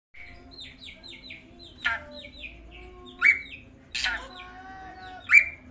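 Drongo-style (srigunting) calls: a quick run of short falling chirps, broken by four louder sweeping calls about a second apart.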